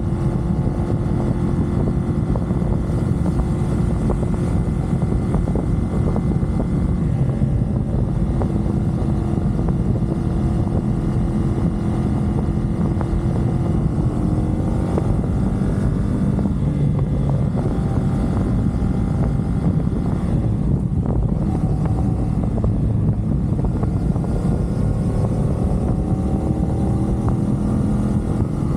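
CFMoto 450SR sports bike's parallel-twin engine running at expressway speed under steady wind rush. The engine note rises a couple of times as the bike accelerates.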